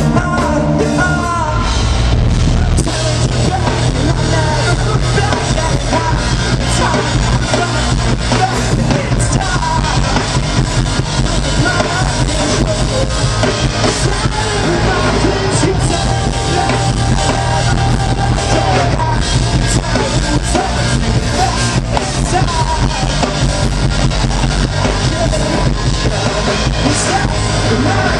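Live rock band playing a song at full volume: drum kit, bass and guitars.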